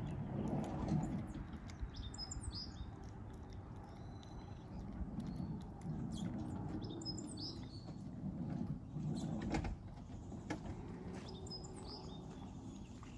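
Small birds chirping a few short calls every few seconds, over a low uneven rustling with a few sharp clicks about two-thirds of the way through.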